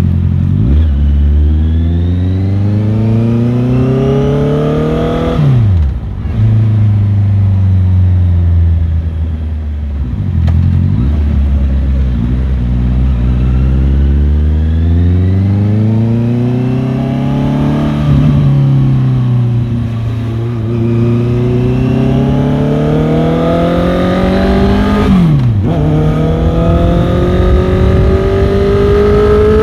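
Motorcycle engine under way, its revs climbing and then dropping sharply three times as gears change, with slower rises and easings of the throttle in between.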